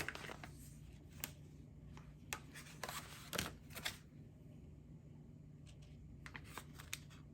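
Light clicks and taps of kitchen items being handled: several sharp knocks in the first half, then a quick run of small faint clicks near the end.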